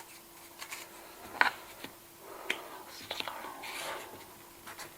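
A few separate sharp clicks of cash register keys being pressed, with soft whispering.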